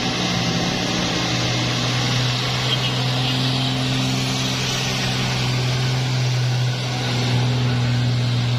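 Heavy truck's diesel engine running with a steady low drone, over a hiss of tyres and road noise.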